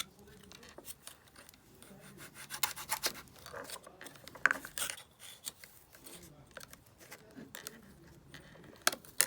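Kinetic sand being cut and scraped, with soft rubbing and scratching sounds. Sharp clicks come in a cluster about two and a half seconds in, a louder one around the middle, and two near the end.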